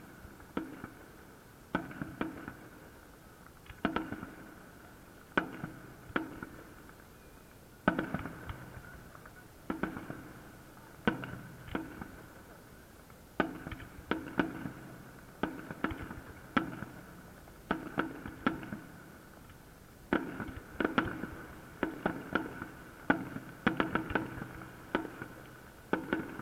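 Festive fireworks salute: aerial shells bursting one after another in an irregular series of loud bangs, each trailing off in a rolling echo, the bursts coming faster and more closely packed toward the end.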